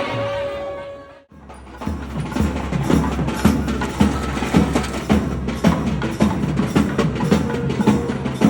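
Procession percussion: drums beating a fast, steady rhythm. A held note sounds over the drums in the first second, the sound drops out briefly, and the drumming starts again.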